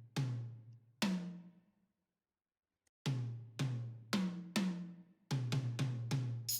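Drum hits in a music cue, with low tom-like strikes that each ring out briefly. Two single hits are followed by a pause, then a run of strikes that speeds up near the end.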